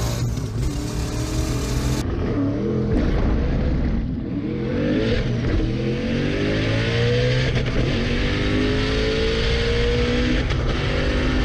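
A car engine accelerating, its pitch climbing steadily over several seconds as it pulls up through the revs. There is an abrupt change in the sound about two seconds in, like an edit between clips.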